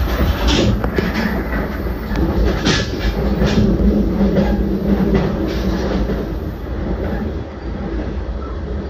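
JR Central 383 series limited express electric train running along the line, heard from on board: a steady low rumble of wheels on rail, with a few sharp clicks over rail joints in the first few seconds.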